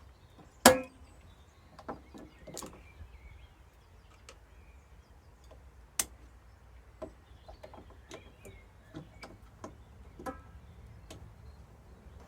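Scattered clicks and knocks of tools and metal parts being handled during work on a tumble dryer's fan and motor. There is one loud metallic clank that rings briefly about a second in, and another sharp knock around the middle.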